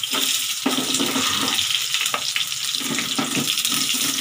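Garlic and sliced onions sizzling in hot oil in a stainless steel pan, with a wooden spatula scraping and knocking against the pan as they are stirred.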